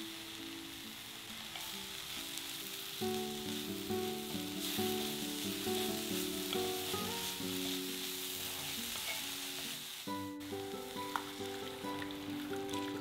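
Chopped leafy greens and onions sizzling in a hot cast iron kadai as they are stirred with a wooden spatula, over soft background music.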